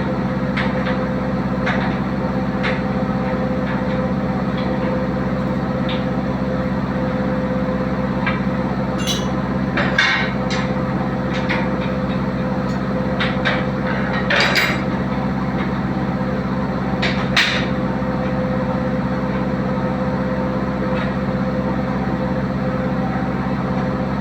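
Diesel engine running at a steady speed, with scattered sharp clicks and knocks over it, the loudest three coming about ten, fourteen and seventeen seconds in.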